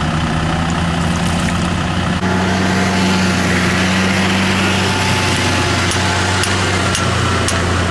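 Tractor engine running steadily at low revs, its note rising slightly about two seconds in, with a few faint metallic clicks.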